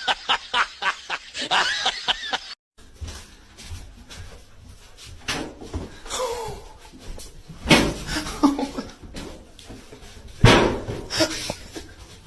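A person laughing in quick, rapid bursts, cut off suddenly about two and a half seconds in. After that, a few sharp knocks or slaps ring out, spaced several seconds apart, against a quieter background.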